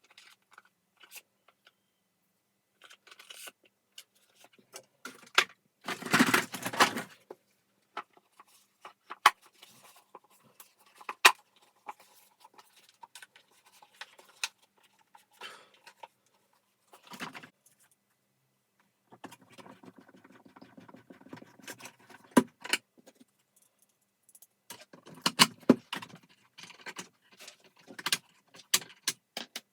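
Small hard parts being handled during vacuum cleaner disassembly: scattered clicks and knocks, with a burst of rattling about six seconds in and longer stretches of clattering in the second half.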